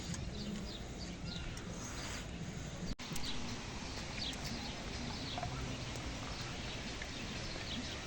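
Small birds chirping in short, scattered calls over a steady outdoor hiss, with a brief cut-out about three seconds in.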